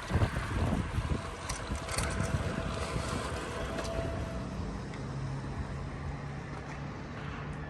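Wind rushing and buffeting over the microphone of a camera carried on a moving bicycle, gusting harder in the first few seconds. A faint steady low hum comes in about five seconds in.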